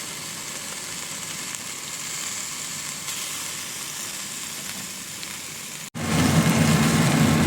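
Ribeye steaks sizzling in a pan with melting butter, an even hiss. About six seconds in it cuts off for an instant and comes back louder, with a steady low hum beneath it.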